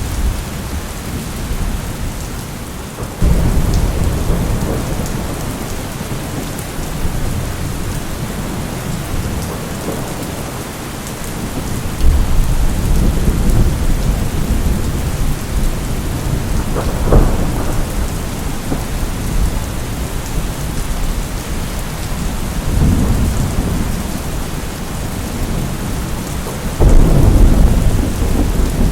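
Steady heavy rain with thunder rolling through it: deep rumbles swell in a few seconds in and again about twelve seconds in, a short sharper crack comes past the middle, and the loudest roll starts near the end.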